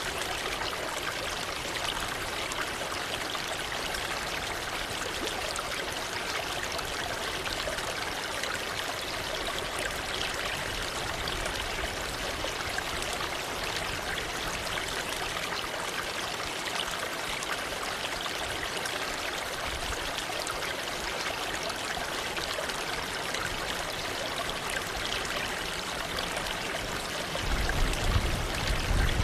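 Waterfall: falling water rushing steadily without a break. A louder low rumble comes in near the end.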